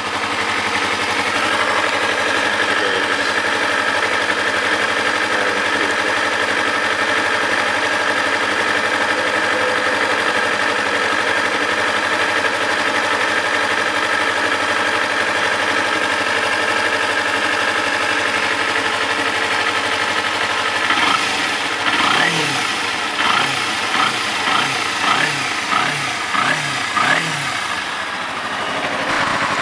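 Fuel-injected 2009 Kawasaki Ninja 250R parallel-twin engine idling steadily, warmed up to normal idle after a cold start. About two-thirds of the way through it is blipped up and down in a quick series of short revs.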